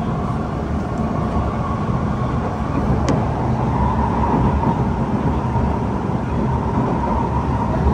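Kawasaki–Nippon Sharyo C151 MRT train running at speed, heard from inside the passenger car: a steady rumble of wheels on rail under a whine that grows louder about four seconds in. There is one sharp click about three seconds in.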